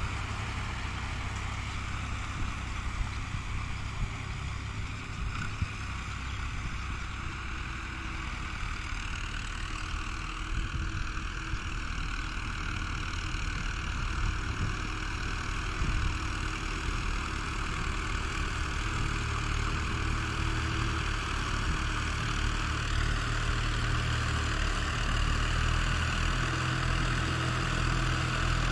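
Fiat tractor's diesel engine running steadily while working a rear blade, growing slightly louder toward the end.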